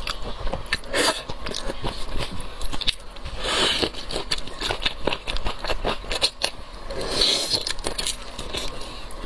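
Close-miked mukbang eating of shrimp: dense clicking and crackling of shell and chewing. Two longer rushing noises come about three and a half and seven seconds in.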